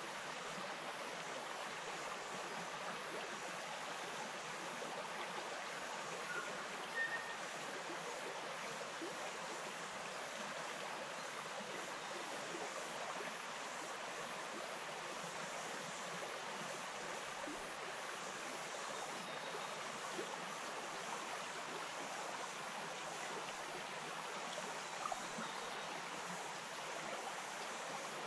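A bush stream flowing over stones: a steady rush and babble of water.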